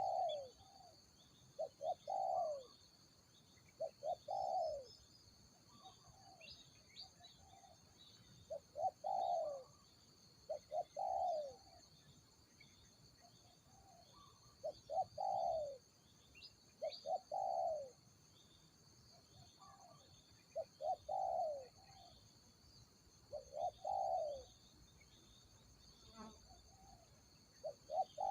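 Spotted dove cooing: a phrase of two or three short notes and then a longer falling coo, repeated about every two seconds.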